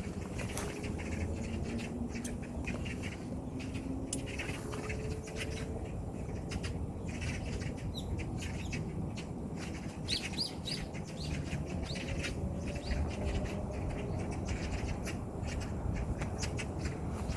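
Birds chirping outdoors, with many short clicks and knocks scattered through.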